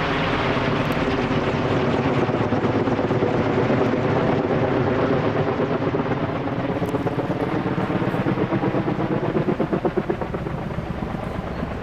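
Firefighting helicopter running close by, its rotor beating steadily, the beat most pronounced about nine to ten seconds in and easing slightly near the end.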